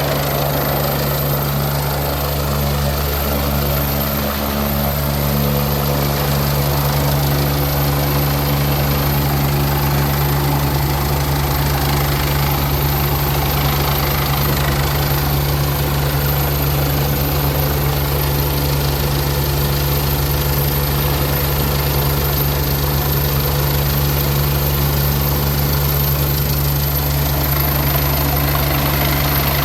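Heavy engine running steadily with a deep, constant hum and no change in pace.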